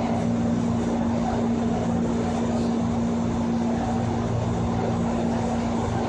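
Japanese 205 series electric train with external-fan traction motors running at steady speed, heard from inside the car. A constant hum holds one pitch over the running noise of wheels on track, so the train is neither speeding up nor slowing down.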